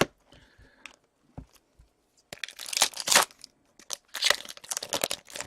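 Crinkling and tearing of a trading-card pack wrapper as it is handled and opened, in two rustling stretches about a second long, one midway and one near the end.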